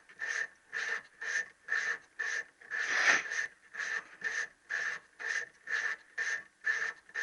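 Hand reamer being turned back and forth in a connecting rod's little-end bush, cutting the bush out to size: a rhythmic rasping scrape, about two strokes a second, one stroke about three seconds in louder than the rest.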